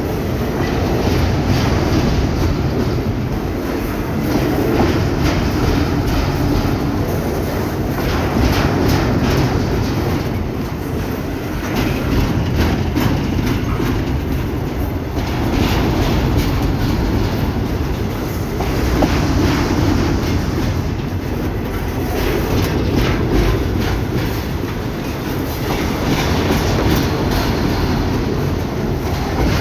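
Freight train wagons rolling past, the wheels clacking over the rail joints over a steady low rumble. The loudness swells and eases every few seconds as the cars go by.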